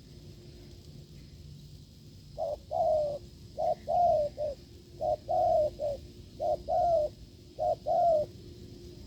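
A dove cooing strongly. It gives about five short phrases of two or three low coos each, starting about two seconds in.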